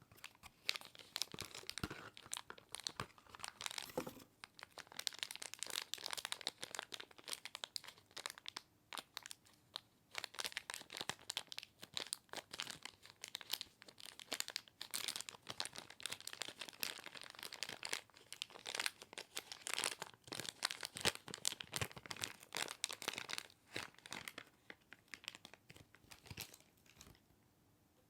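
Figure packaging being crinkled and torn open by hand: a dense run of irregular crackles that stops about a second before the end.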